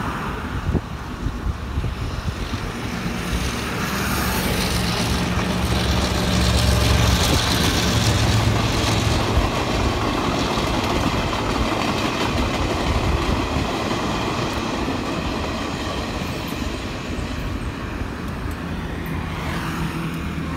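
A vehicle going by: a steady rumble and rush of noise that swells to its loudest about seven seconds in and then eases off a little.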